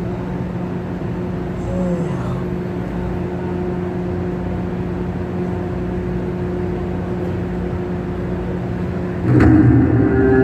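Steady hum and room noise through a hall's sound system, with fixed humming tones and no speech. About nine seconds in, louder music starts.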